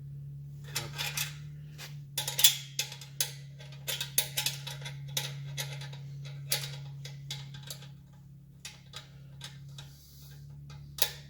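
Irregular sharp clicks and knocks of hand tools on a motorcycle exhaust clamp while it is fitted and tightened, over a steady low hum.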